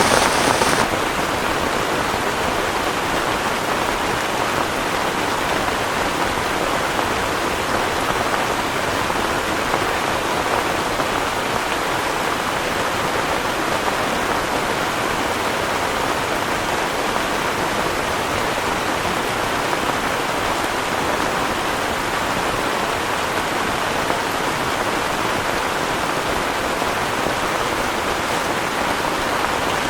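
Heavy rain falling as a steady, even hiss. A louder, brighter layer of the noise drops away about a second in.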